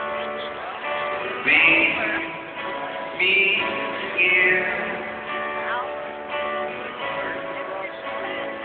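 Live rock band music with strummed guitar, recorded from the audience on a phone, so it sounds thin, with nothing in the highs.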